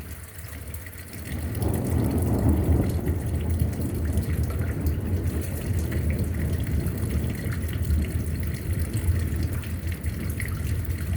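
Strong thunderstorm wind gusting against the microphone: a steady, heavy rumble that builds about a second and a half in and keeps up.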